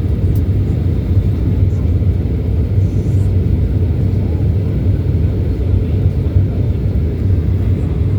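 Steady, deep cabin rumble of a Boeing airliner in descent: engine and airflow noise heard from inside the passenger cabin.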